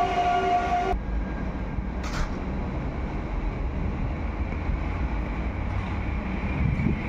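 A train horn holds one steady note and stops abruptly about a second in. It is followed by the low rumble of a Polregio EN57 electric multiple unit rolling slowly in along the platform. A faint high squeal builds near the end.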